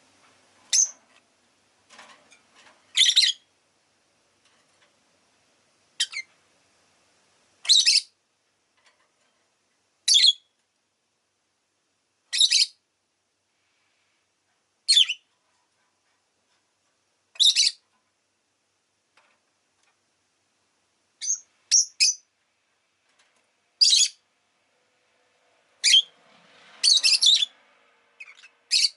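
Rosy-faced lovebird giving short, shrill chirps every two to three seconds, some in quick pairs, with a small flurry of calls near the end.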